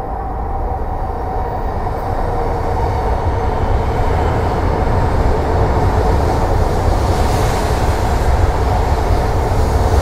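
E4 Series double-deck Shinkansen train moving past the platform: a steady rumble of wheels and running gear with a whine of steady tones on top, growing gradually louder as the cars go by.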